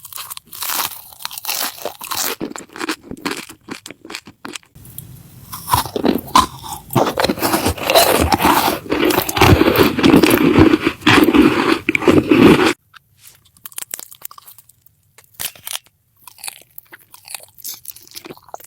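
Close-miked eating: crunching bites and chewing of crisp food, with sharp crackles. A louder, denser stretch of crunching in the middle cuts off suddenly, followed by sparser, quieter bites.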